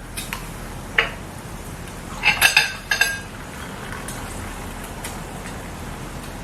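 Tableware clinking at a meal: one sharp clink about a second in, then a quick cluster of ringing clinks of metal or glass a little past halfway.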